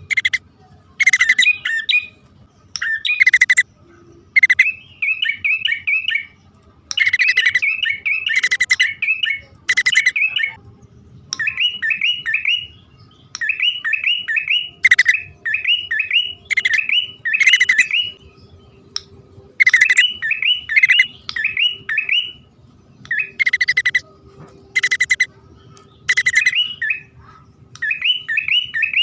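Prenjak (prinia) calling as a male-and-female pair, the kind of recording used as a trapping lure. Quick runs of three to five sharp chirps alternate with harsh, raspy calls, one after another every second or two.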